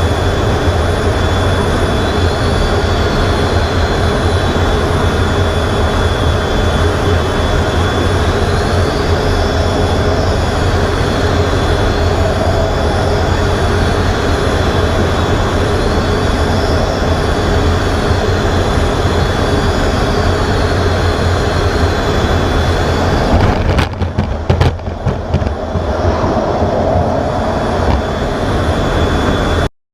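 Loud, steady jet aircraft noise: a heavy rumble with a constant high whine and a higher whine that rises and falls every few seconds. About six seconds before the end it breaks up with a few sharp jolts, then stops suddenly.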